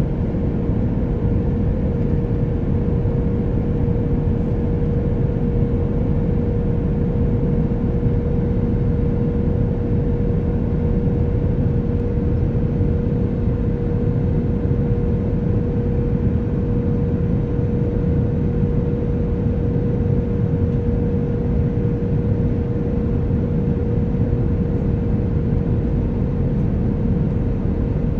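Airliner cabin noise in flight: the steady, even roar of the jet engines and rushing air, with a constant hum running through it.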